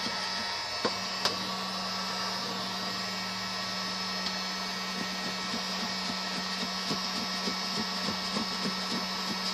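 Electric hot-air blower running steadily with a constant hum. Light clicks and taps sound over it, a sharper one about a second in and more frequent ones in the second half.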